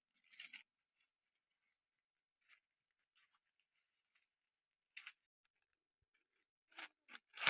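Scattered soft rustling and scraping noises, short and irregular, with a louder cluster near the end.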